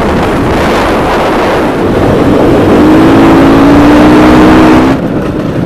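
Off-road rally motorcycle under way: heavy wind rush over the helmet-camera microphone with the engine running underneath. The engine note rises slightly from about halfway through, then the sound drops off sharply near the end.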